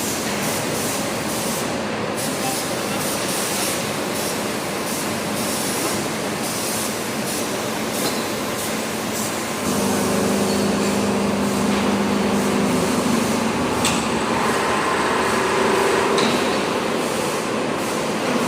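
Biomass aluminium melting furnace running with a steady rushing noise. About ten seconds in, a low hum joins for about three seconds.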